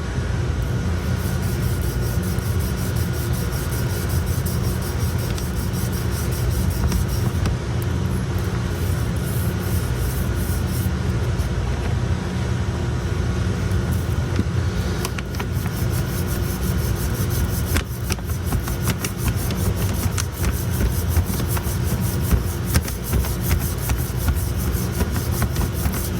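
Steady low machinery hum with irregular scratchy rubbing strokes from a hand block worked over a ground-down repair on a hard-chrome plated printing cylinder. The block is checking that the repaired spot sits just below the cylinder's original surface before plating.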